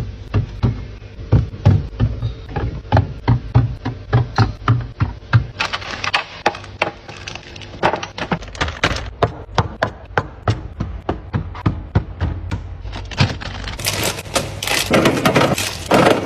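Food containers and packs being set down and arranged in a freezer: a quick, irregular run of knocks and taps, thickening into a busier clatter near the end.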